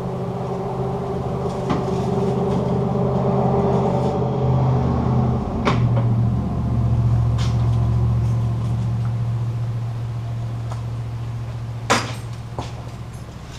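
A steady low motor hum that shifts to a lower pitch about five and a half seconds in, with a few sharp clicks and knocks, the loudest near the end.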